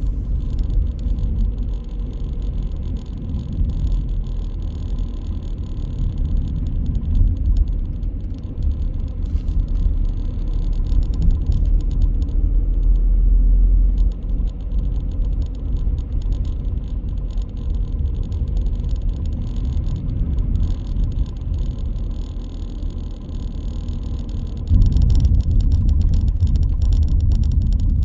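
Car driving, with a steady low rumble of engine and road noise that grows louder near the end.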